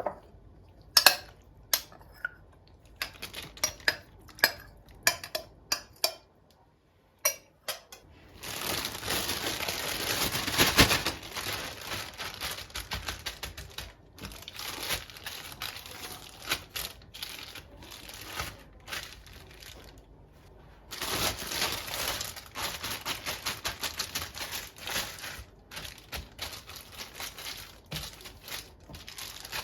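Kitchen handling sounds: a run of separate clicks and knocks for the first several seconds, then two long stretches of crinkling plastic, like freezer bags being handled and filled, with scattered small ticks between them.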